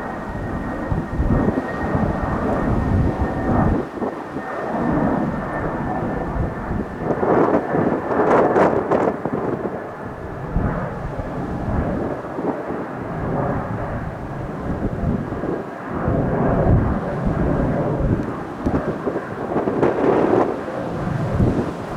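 Airbus A319 twin jet engines at takeoff thrust, a deep, uneven rumble that swells and fades, with a faint high whine slowly dropping in pitch.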